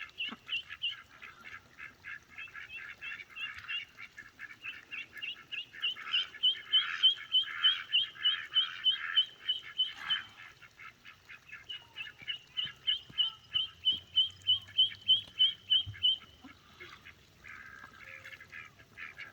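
A group of ducklings peeping over and over in quick, short, high calls, about three a second, in two loud runs with a brief lull around ten seconds in.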